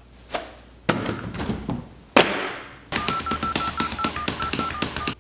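A few knocks and thuds, then a quick run of phone keypad beeps, about six presses a second, as a number is dialled.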